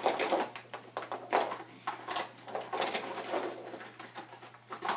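Toy monster trucks rattling and clattering along a plastic toy race track, a string of irregular clicks and knocks.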